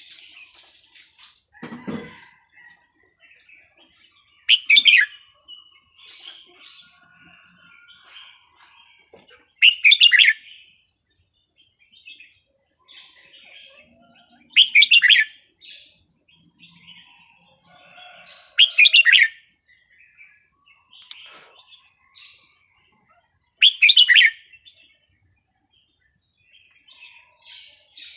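Red-whiskered bulbul singing: a loud short warbled phrase repeated about every five seconds, with fainter chirps between the phrases.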